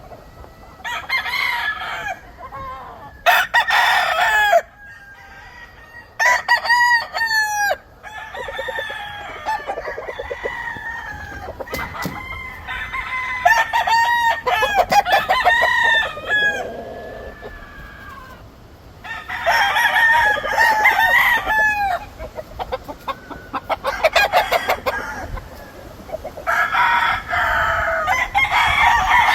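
Several young gamefowl roosters crowing, one crow after another in bouts through the whole stretch, some overlapping.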